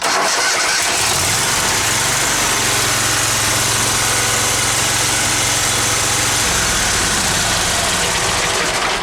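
Kohler twin-cylinder engine on a zero-turn mower cranking, catching at once and running steadily, its tone shifting about six and a half seconds in before it shuts off at the end. It is running on fresh ignition coils and spark plugs, now firing on the cylinder that had been dead.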